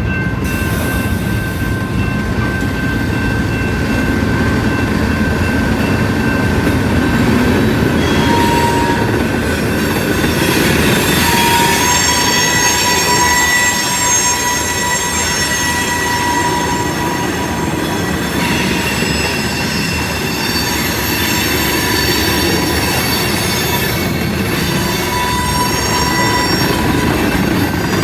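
Railroad cars rolling past, a steady loud rumble of steel wheels on the rails. Thin, high-pitched wheel squeals come and go over it, mostly from about eight seconds in.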